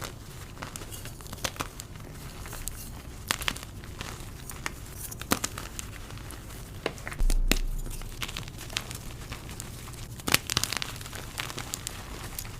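Blocks of dyed gym chalk being crushed and crumbled by hand: scattered crunches and crackles, with a dull low thump a little past halfway.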